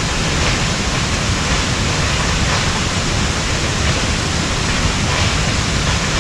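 Strong wind blowing across the microphone: a steady, loud rushing with heavy low buffeting.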